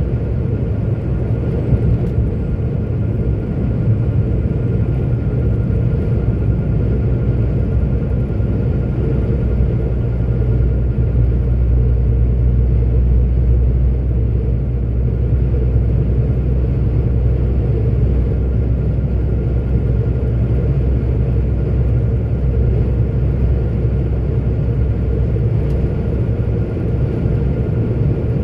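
A 44-ton articulated truck's diesel engine and road noise, heard from inside the cab while cruising: a steady low rumble with a faint, steady high whine above it.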